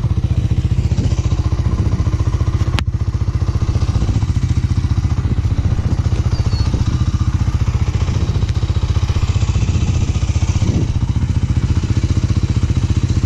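Motorcycle engine running steadily under way, with a rapid even pulse of firing strokes. A single sharp click cuts through it about three seconds in.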